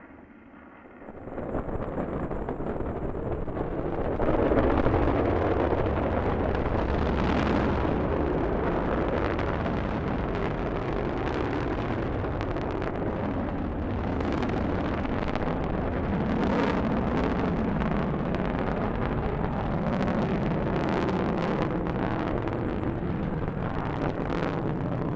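Rocket launch: the engines' deep rumble comes in about a second in and holds steady, with a continual crackle through it.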